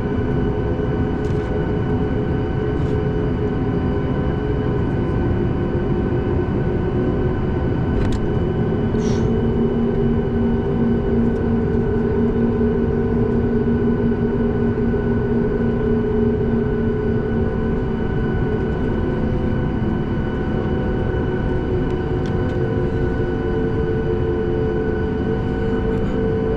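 Steady engine drone and air noise inside the cabin of a Boeing 737 MAX 8 airliner, with several steady hum tones holding even throughout.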